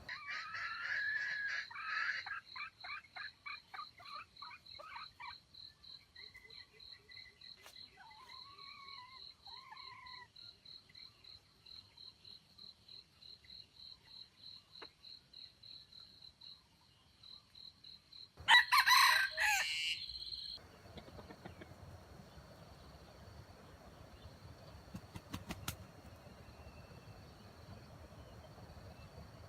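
A rooster crows loudly once, about two-thirds of the way through, after a quick run of chicken calls in the first few seconds. An insect chirps steadily underneath, about four times a second.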